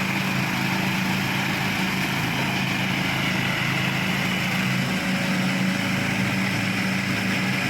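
Engine of a home-built zero-turn ride-on lawn mower running steadily at an even pitch.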